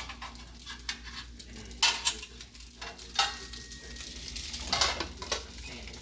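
Rice and mushrooms sizzling in a hot frying pan, with a utensil scraping and knocking against the pan, three strokes standing out above the steady frying hiss.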